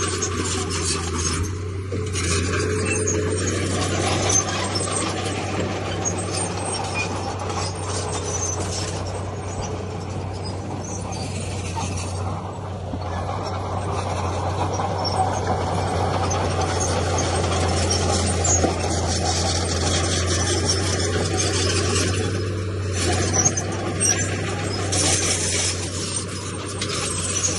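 Komatsu D31P crawler bulldozer working: its diesel engine runs with a steady low drone, and the steel tracks and blade keep up a clanking, squealing rattle.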